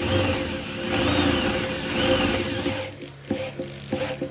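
Electric drill with a 7.5 mm bit boring the main outlet hole in a fuel tank, its speed rising and falling. It stops about three seconds in, followed by a few sharp clicks.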